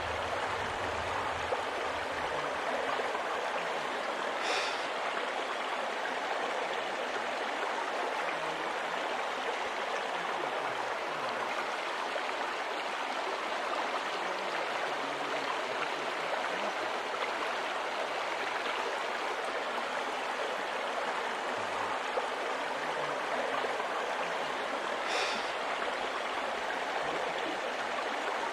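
Stream water flowing steadily over a rocky bed, a continuous rushing. Two brief high-pitched sounds stand out, a few seconds in and again near the end.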